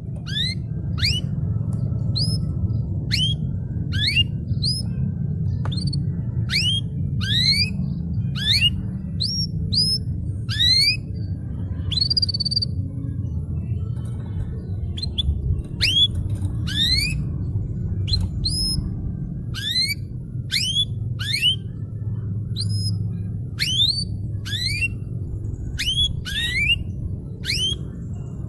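Canary singing a long series of short, quickly rising whistled notes, about two or three a second, over a steady low hum.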